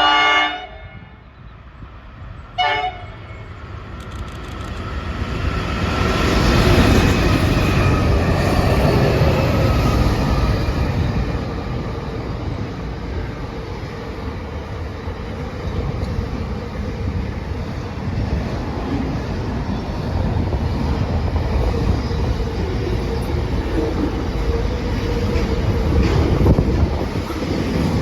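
Train horn sounding a blast, then a short toot about two and a half seconds later. A train then runs through, its rumble and rail noise building over a few seconds to a loud peak and carrying on steadily as the train passes.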